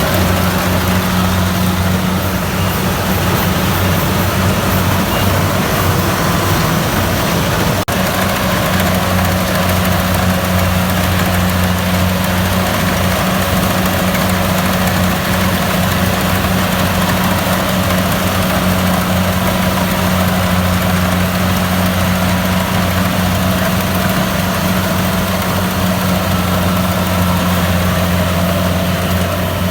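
Kubota DC-70 Plus rice combine harvester running steadily, its diesel engine giving a constant low hum with a single brief click about eight seconds in.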